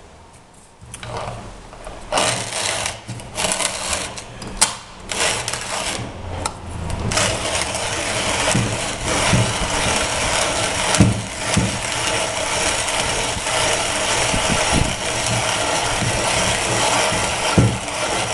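Hand-cranked Dienes 646 conical burr coffee grinder grinding a 7-gram dose of beans at a fine setting, burrs just touching. Irregular cracking and crunching at first as the whole beans break up, then a steady rasping grind from about seven seconds in.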